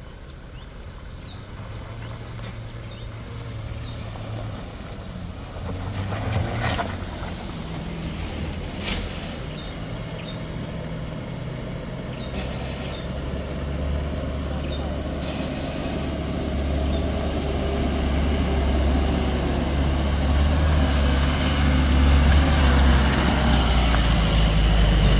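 Heavy vehicle engine running and growing steadily louder as it draws closer, with a couple of short knocks in the first half.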